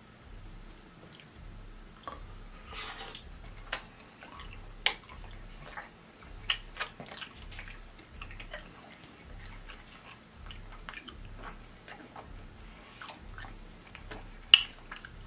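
A person chewing and smacking on pork chop meat, with frequent sharp, wet mouth clicks and a short breathy burst about three seconds in.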